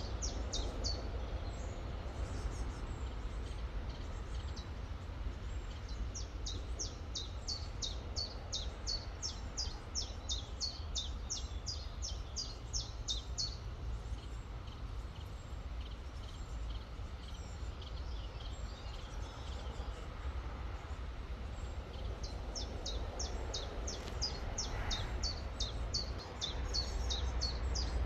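A songbird repeating a short, high downward-sliding note two or three times a second in long runs, pausing in the middle and starting again near the end, over the steady rush of a river.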